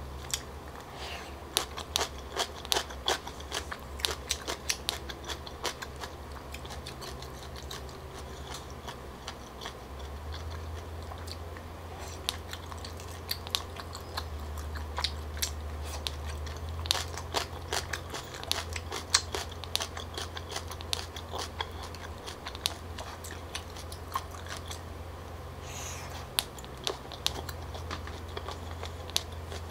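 Close-up mouth sounds of a person chewing chewy tteokbokki rice cakes and seafood: many wet clicks and smacks throughout. A steady low hum runs underneath.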